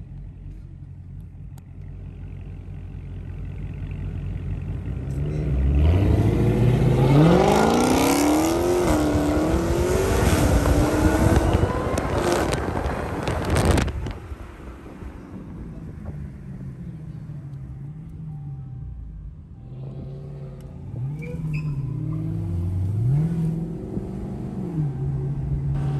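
A muscle car's engine revving up hard with the tyres spinning, its pitch climbing for several seconds under loud rough noise that cuts off abruptly about fourteen seconds in. A few quick revs up and down follow before it settles to a steady idle.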